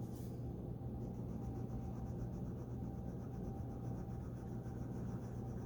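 Quiet scratching of a colouring tool on a paper sheet as a square is coloured in, over a steady low hum.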